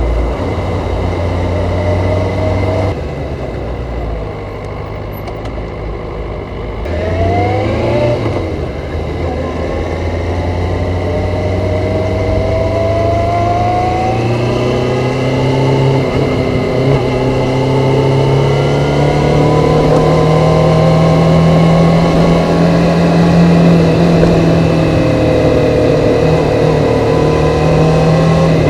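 Stock Kawasaki ZZR400 inline-four engine and exhaust under way: the revs drop back for a few seconds, then about seven seconds in the engine accelerates, its pitch climbing quickly and then rising slowly and steadily for the rest of the stretch.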